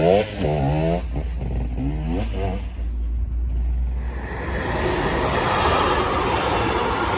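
2013 KTM 250 EXC two-stroke engine through an Akrapovic exhaust, revved in several quick throttle blips that rise and fall in pitch, then dropping to a low steady idle. From about four seconds in, a steady rushing noise takes over.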